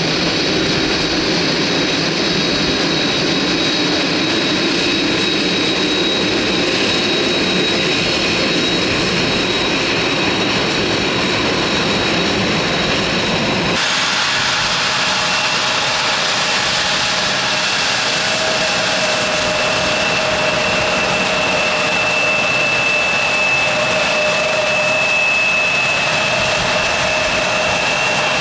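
Jet airliner engines running close by, a steady rushing noise with a high whine. About halfway through it cuts abruptly to another engine sound with a lower whine and a second, deeper steady tone.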